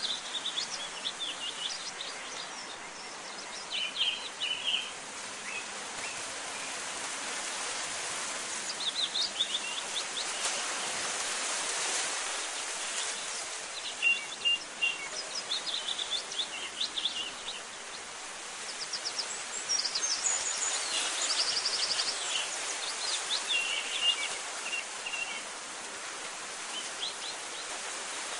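Small birds chirping and giving quick trills on and off, over a steady background hiss.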